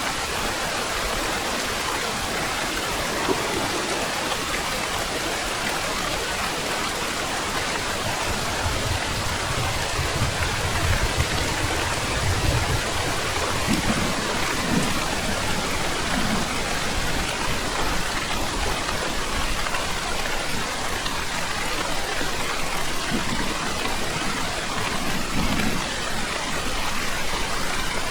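Heavy rain falling as a steady, dense hiss, with a low rumble of thunder rolling in about eight seconds in and lasting several seconds, then a few fainter low rumbles later.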